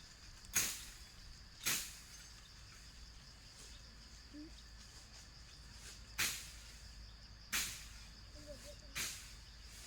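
Five sharp knocks or strikes at irregular spacing, each dying away quickly, over a steady high thin hum.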